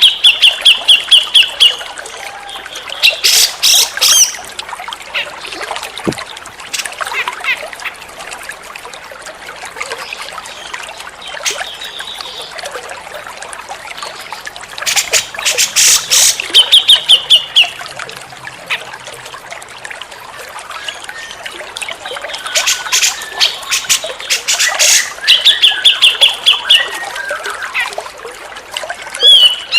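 Cucak jenggot (grey-cheeked bulbul) singing in loud bursts of rapid sharp notes, each ending in a short trill, repeated several times with pauses between, over a steady trickle of water.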